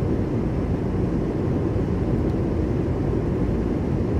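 Steady low rumble inside a car.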